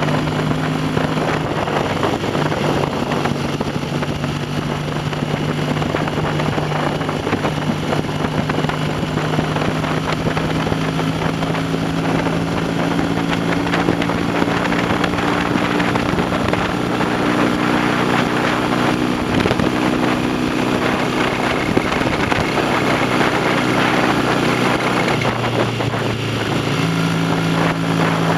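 Classic motorcycle engine running on the road at a steady pace, with wind rushing over the microphone. The engine note rises a little over the middle stretch, then dips and picks up again near the end as the revs change.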